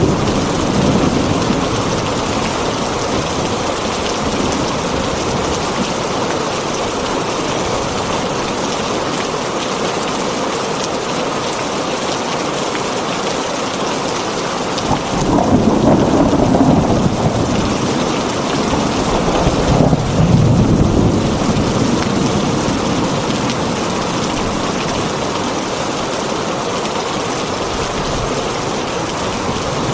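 Heavy rain drumming steadily on a tin roof, with two low rolls of thunder swelling up a little past halfway.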